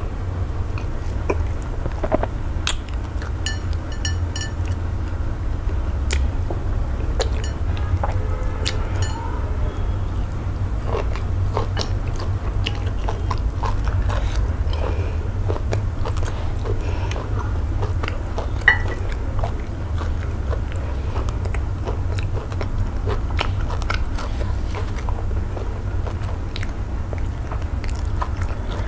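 Close-miked eating sounds: chewing and wet mouth clicks and smacks of eba with slimy okra-melon soup, eaten by hand, with scattered sharp clicks over a steady low hum. One louder sharp click comes about two-thirds of the way through.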